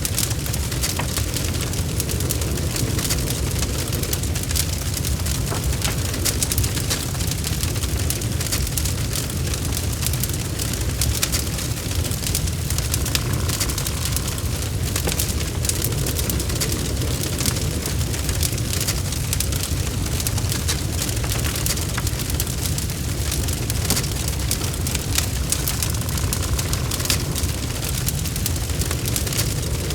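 Wood logs burning in a fireplace: a steady low rumble of flame with frequent sharp crackles and pops throughout.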